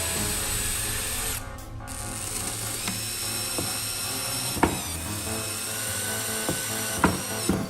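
An electric power tool motor running with a high whine. It cuts out for about half a second about one and a half seconds in, then starts again. Two sharp knocks come near the middle and near the end.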